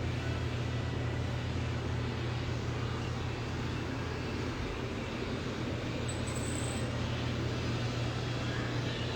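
Steady low hum under an even rush of background noise, unchanging throughout.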